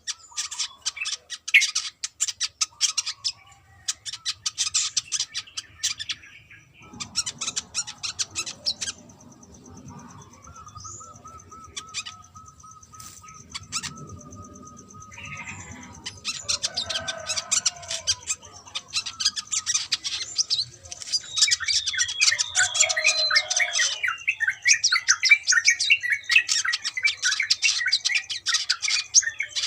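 Brown-throated sunbird singing: rapid runs of high, twittering chirps in bursts, thinning out for several seconds in the middle before a denser, louder stretch of song near the end.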